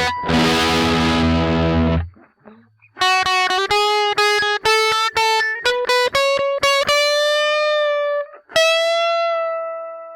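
Electric guitar through a ProCo Rat 2 distortion pedal. A thick distorted chord rings and is cut off abruptly about two seconds in. After a short gap comes a fast run of single picked notes, then two long sustained notes, the last one fading away.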